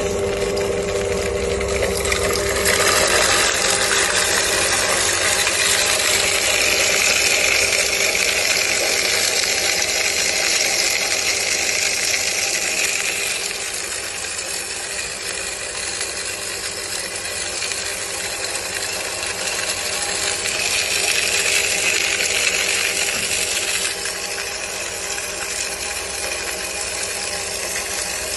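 Laboratory Wiley cutting mill running, its belt-driven stainless steel blades and rotor grinding sugar to powder. It gives a steady motor hum under a dense continuous noise that grows louder a couple of seconds in.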